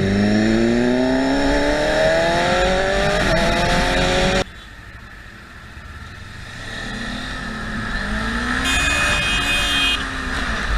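A vehicle engine accelerating hard, its pitch climbing steadily with a short dip about three seconds in, then cut off abruptly about four and a half seconds in. A quieter engine and road noise follow, rising and falling, with a brief high tone near the end.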